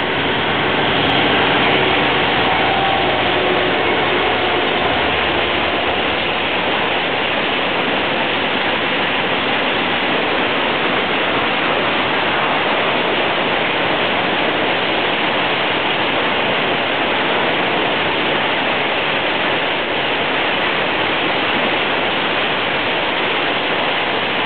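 Freight train passing: the Q-class diesel locomotive's engine is heard in the first few seconds, then a long, steady rolling noise of wheels on rail as empty tank wagons go by.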